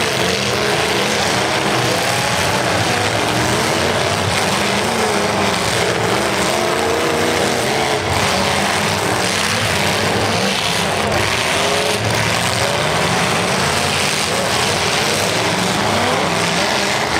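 Several demolition derby cars' engines revving hard through open exhaust stacks, their pitches rising and falling over one another in a steady loud din.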